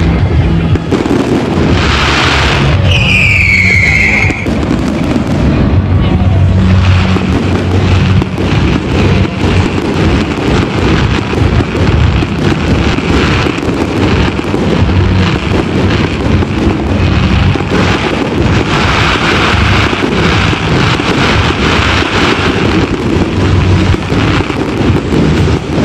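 Fireworks display: aerial shells bursting overhead in a dense, continuous run of bangs and crackling. A high whistle falls in pitch about three seconds in.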